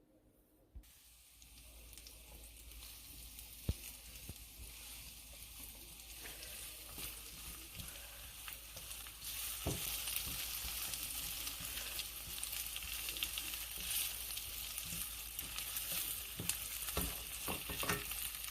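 Food sizzling in a hot pan while being stirred, with scattered clicks and scrapes of the spoon against the pan. The sizzle starts about a second in and grows louder about halfway through.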